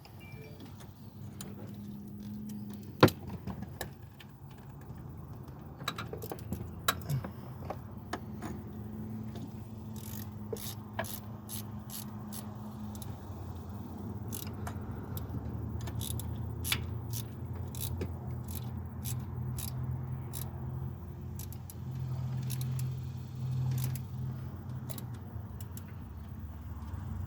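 Hand tools clinking and clicking against metal engine parts during alternator replacement work, with one sharp knock about three seconds in. A steady low hum runs underneath and grows stronger in the second half.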